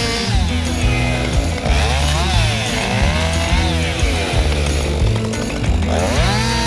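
Husqvarna 550XP two-stroke chainsaw cutting firewood. Its pitch sweeps down and back up several times as the chain loads in the wood and frees again. Background music plays under it.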